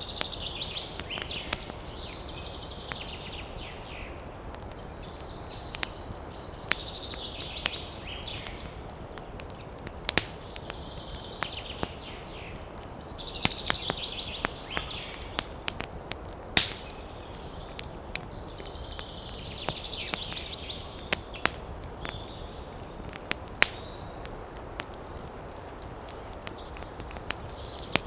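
Campfire crackling, with irregular sharp pops and snaps of burning wood over a low steady hiss. A bird calls in short phrases every few seconds.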